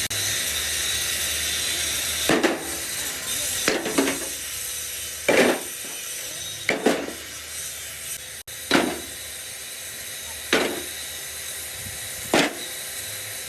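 A steady hiss with a series of sharp, ringing strikes on metal, about eight in all, spaced roughly one and a half to two seconds apart.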